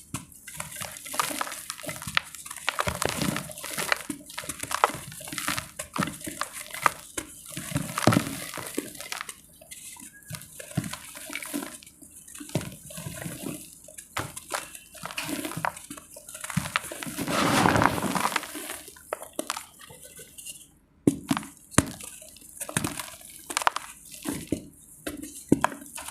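Dry multani mitti (fuller's earth clay) being crushed and crumbled close to the microphone: irregular crackles and crunches, one after another, with a short break near the end.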